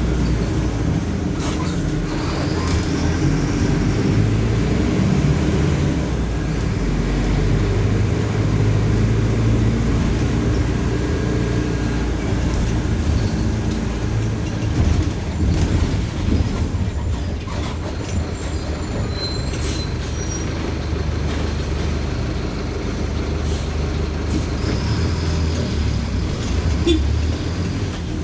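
Mercedes-Benz OF-1519 BlueTec 5 bus's diesel engine running as the bus drives in traffic, its note rising and falling with speed, with occasional short clicks and rattles.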